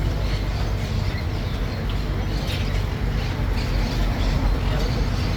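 Steady low rumble of a tourist road train under way, its engine and tyres running, with a few faint high squeaks now and then.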